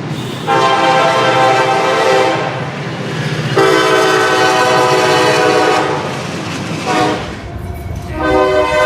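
Diesel locomotive's multi-chime air horn sounding the grade-crossing signal: two long blasts, a short one, then a long one begun near the end, over the low rumble of the passing train.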